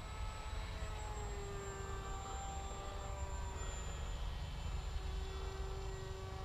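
Electric motor and propeller of a Bixler RC model plane whining in flight, its pitch drifting slightly, over a steady low rumble of wind.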